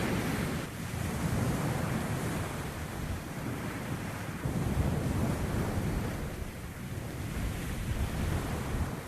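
Rushing wind and surf noise with wind buffeting the microphone, swelling and easing every few seconds.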